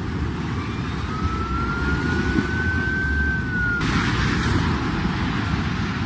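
Steady rushing noise of floodwater and rain, with a distant siren wailing slowly upward from about a second in and falling away near four seconds, when the hiss suddenly grows brighter.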